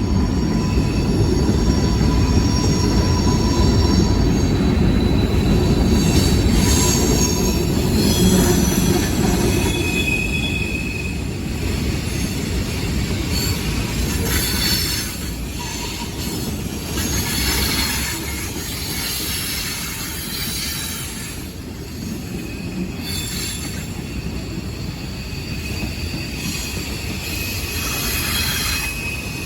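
A train rolling past, its steel wheels squealing on the rails over a steady low rumble. The squeals come and go as high, thin tones, and the passing is loudest in the first half, easing after about fifteen seconds.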